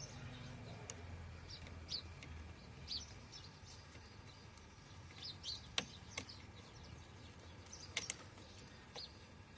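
Scattered short, high bird chirps, faint, with a few sharp clicks in between.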